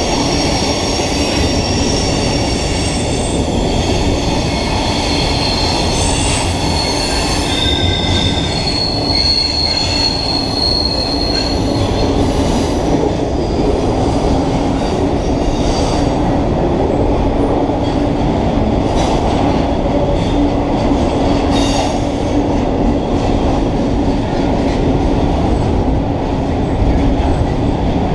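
Double-stack container cars of a freight train rolling past, a steady rumble of steel wheels on rail. High wheel squeal runs through about the first twelve seconds, then fades, and a few sharp knocks come later.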